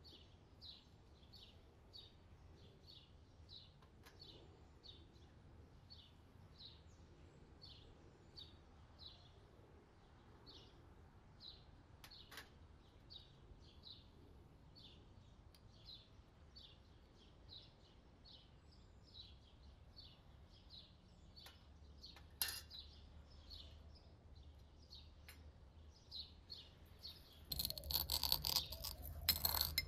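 A small bird chirping over and over, faintly, about two chirps a second, with a couple of sharp clicks. Near the end a brass mortar and pestle starts pounding and grinding whole spice seeds, with loud metallic clinking and scraping.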